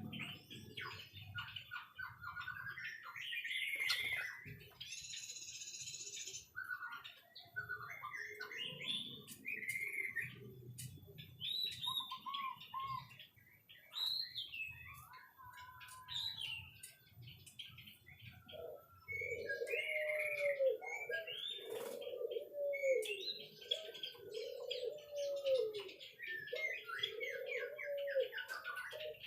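White-rumped shama singing a varied run of whistled phrases. About two-thirds of the way in, a lower call joins, repeated roughly every second and a half.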